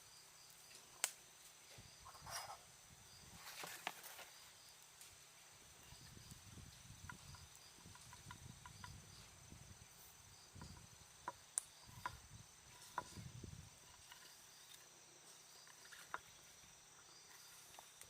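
Near silence: a faint steady high-pitched hum with a few scattered, irregular light clicks and taps.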